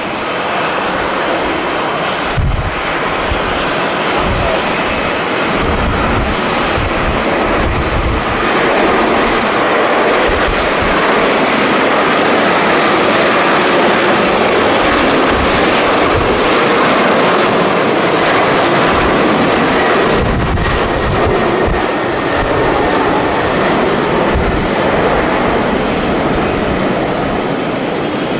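Jet airliner engines running loud as a plane passes on the runway, a steady rushing that swells toward the middle and eases off near the end. Gusts of wind buffet the microphone throughout.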